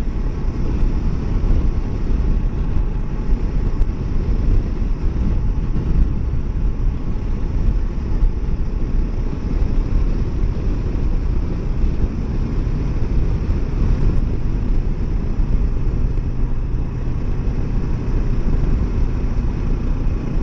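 Kawasaki Versys 650 parallel-twin engine running steadily under way, with heavy low wind rumble on the microphone from riding.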